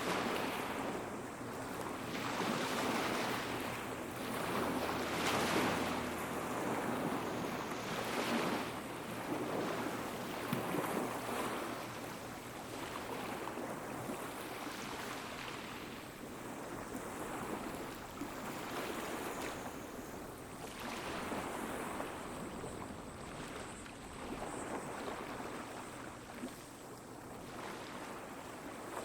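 Small waves washing onto the beach, the surf swelling and ebbing every two to three seconds.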